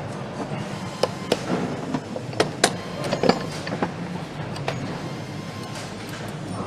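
Factory assembly-line noise: a steady background hum with a handful of sharp clicks and knocks, bunched between about one and three and a half seconds in.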